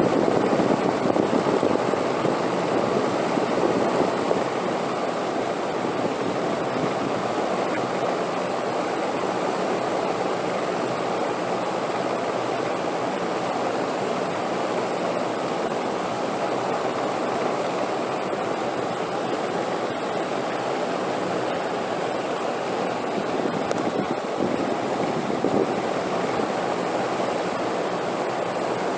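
Wind blowing as a steady, even rush, a little louder for the first few seconds and then level.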